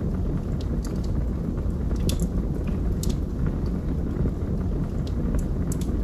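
Wood fire burning in a fireplace: a steady low rumble of flames with sharp crackles and pops from the burning logs scattered throughout.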